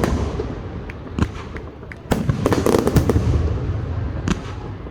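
Fireworks going off: a single bang about a second in, then a dense volley of rapid cracks and bangs over a low rumble, and another sharp crack near the end.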